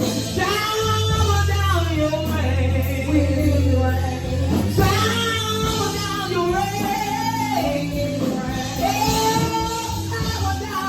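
Gospel song with a woman singing long held lines that bend in pitch, without clear words, over a band with guitar and a steady bass.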